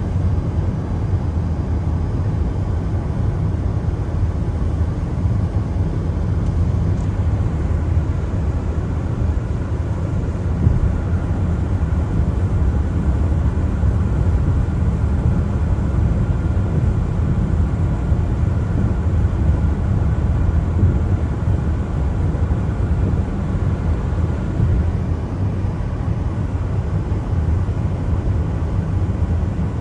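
Car driving on a wet road in the rain: a steady low rumble of road and tyre noise with a fainter hiss above it.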